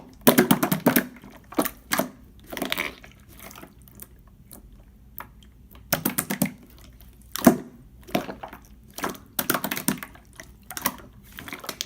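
Clear slime being squished and pressed by hand, giving irregular clusters of wet crackling and popping.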